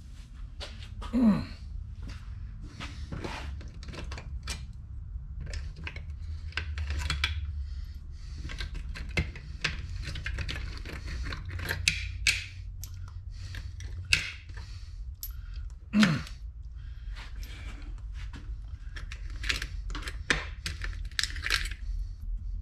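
Metal transmission parts, bolts and hand tools being handled on a workbench: scattered clicks, taps and clinks, a few louder knocks among them, over a steady low hum.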